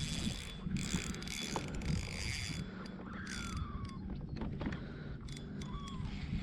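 Fishing reel being cranked, a mechanical whirring and clicking, with bursts of hiss and a few clicks as the line is worked in.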